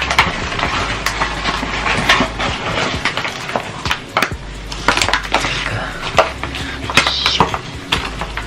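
Handling noise: a string of sharp clicks, taps and knocks with rustling as something is being opened up.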